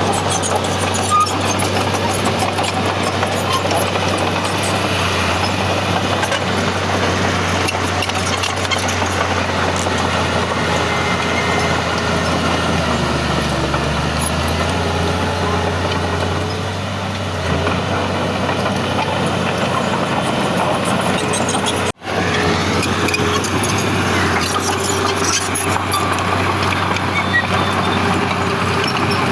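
Heavy diesel earthmoving machinery running steadily under load, a constant low engine drone with mechanical clatter over it. The sound cuts out for an instant about three-quarters of the way through.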